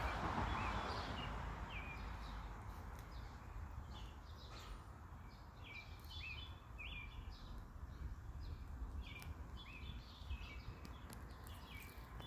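Small birds chirping, with many short, high, hooked notes repeated in quick runs, over a steady low rumble. A brief rushing noise is the loudest sound, in the first second.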